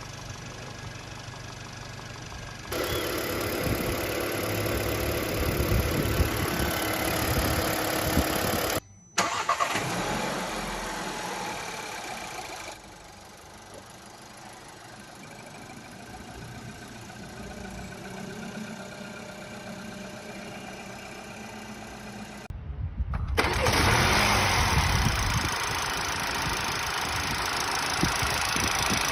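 Family-car engines running steadily in several short recordings joined by abrupt cuts, some louder than others. They are offered as the normal sound of a healthy engine with no abnormal noises, the kind of check made when inspecting a used car.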